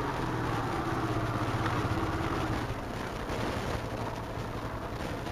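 Motorcycle engine running with a rapid, pulsing exhaust chug, easing off and getting a little quieter about halfway through.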